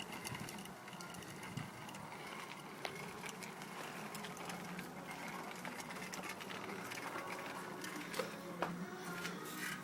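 Bicycle rolling along: a steady low mechanical whirr with light scattered ticking, as from wheels and chain in motion.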